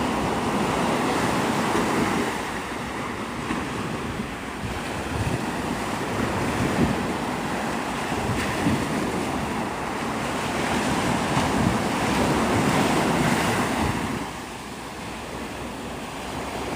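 Gulf of Mexico surf breaking and washing up the beach, with wind buffeting the microphone. The noise swells and eases, dropping off for a couple of seconds near the end.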